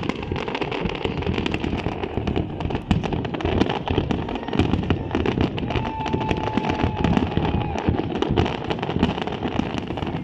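Large fireworks display going off continuously: rapid, overlapping bangs and crackles with no break.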